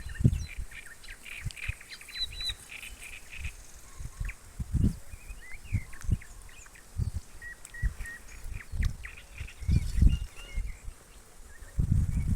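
Small songbirds chirping and singing in short calls and trills, over a faint outdoor hiss. Irregular low thumps and rumbles, the loudest sounds, come and go throughout, strongest about five seconds in, around ten seconds and near the end.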